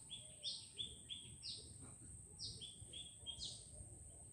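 Faint bird calls: a short falling note with two or three short lower chirps, repeating about once a second.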